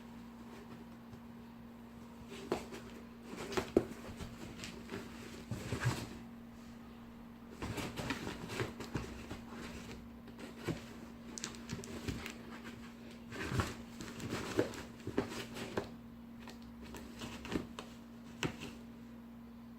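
Cats scrabbling and pawing in a cardboard box: irregular scratches, taps and scuffs on cardboard, coming in busy flurries with short lulls between. A steady low hum runs underneath.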